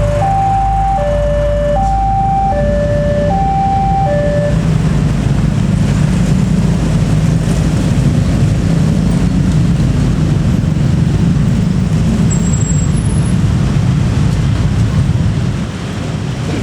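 Low, steady running of a diesel railcar train's engines, growing louder after about five seconds. For the first four seconds an electronic warning signal beeps in two alternating tones over it.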